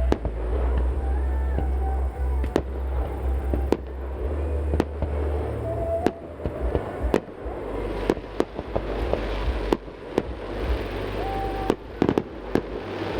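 Fireworks bursting overhead: a rapid, irregular run of sharp bangs and cracks with a few short whistling tones between them.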